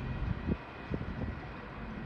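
Freight cars of a manifest train rolling past, a low rumble with a few irregular low knocks from the wheels.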